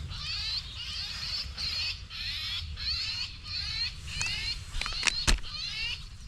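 Recorded European starling distress call playing from a Bluetooth speaker: short, harsh, high screeches repeating about twice a second. A few sharp clicks and one louder knock come about five seconds in.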